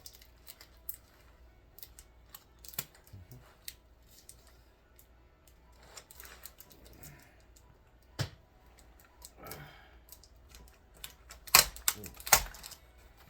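Irregular hard plastic clicks and clatter of an old Hewlett Packard computer keyboard being pried and pulled apart, with two loud sharp knocks close together near the end.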